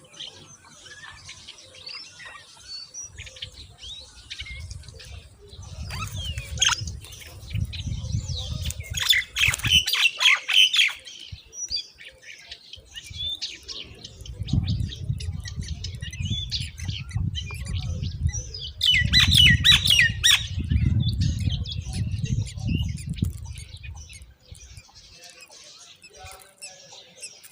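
Myna chicks squawking in two loud bursts of harsh, rapid begging calls, about a third and two thirds of the way through, with softer chirps between. A low rumble runs beneath the calls.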